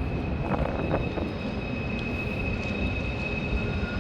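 Wind buffeting the microphone as a steady low rumble, with a thin steady high-pitched whine over it.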